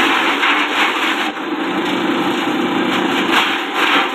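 Small forage chopper driven by a 1/4 hp electric motor, running with a steady hum. Rough chopping surges come in the first second and again near the end as plant stalks are fed through its blades.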